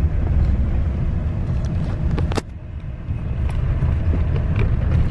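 Road rumble of a moving vehicle heard from inside it, with a sharp clunk about two seconds in followed by a brief drop in the rumble.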